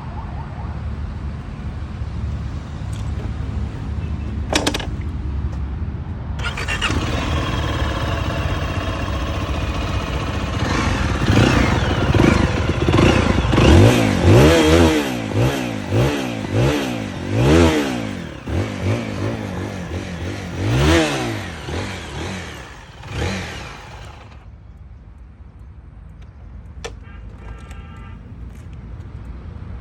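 Zontes GK350 motorcycle, its single-cylinder engine running through the exhaust. The sound fills out about six seconds in. Through the middle the throttle is blipped in a quick string of revs that rise and fall, and near the end the loud engine sound drops away to a low rumble.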